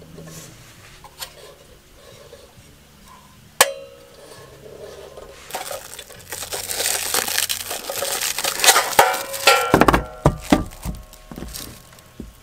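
Hard objects being handled and clinking together: a single sharp clank, then several seconds of rustling, crackling noise with small clicks, and a few knocks that ring briefly near the end.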